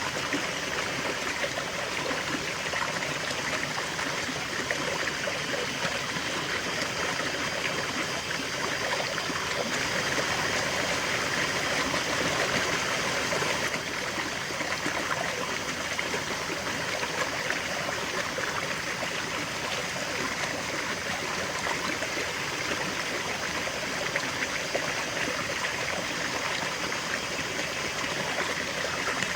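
River water flowing steadily over stones, a continuous rushing with some trickling.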